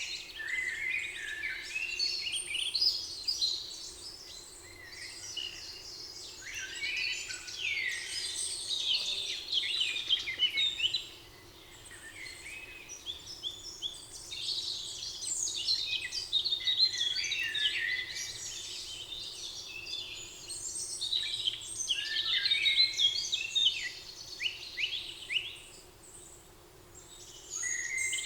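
Several songbirds singing at once, a dense chorus of chirps, trills and quick repeated high notes, with two short lulls.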